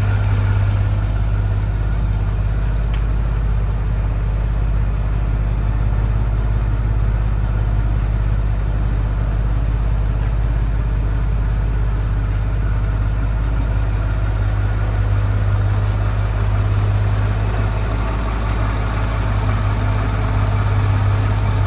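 1948 Chevrolet Fleetline Aerosedan's 216 cubic-inch straight-six engine idling steadily with an even low hum.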